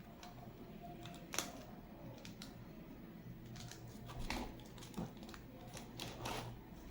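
Scattered, irregular clicks and clacks of hands working on a mechanical keyboard, with a brief scraping clatter near the end.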